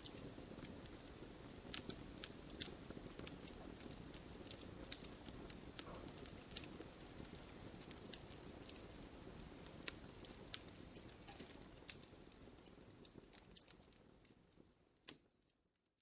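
Wood fire crackling, with frequent sharp pops over a low steady hiss of flames. It fades out over the last few seconds, with one last pop shortly before it falls silent.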